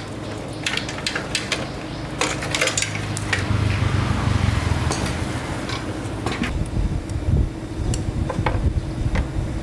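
Metal clinking and clattering of tools and parts being handled, over a steady low hum, with a low rumble swelling in the middle.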